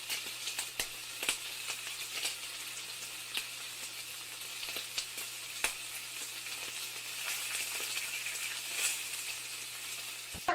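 Food frying in a pan: a steady sizzling hiss with scattered sharp pops and crackles.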